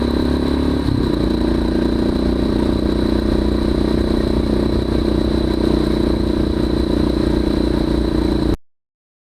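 Off-road motorcycle engine running steadily and loudly, with a drop in engine pitch about a second in. It cuts off abruptly near the end.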